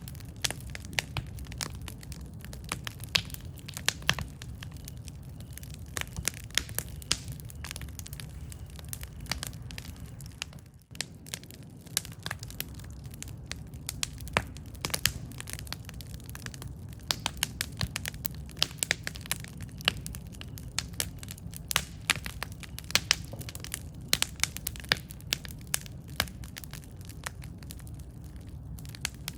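Wood campfire crackling, with many sharp irregular pops over a steady low rumble of burning flames. The sound dips briefly about eleven seconds in.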